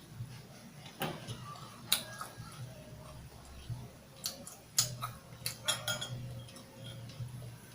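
Close-up eating sounds of barbecue being chewed: scattered sharp mouth clicks and smacks, a few at a time, over a low steady background hum.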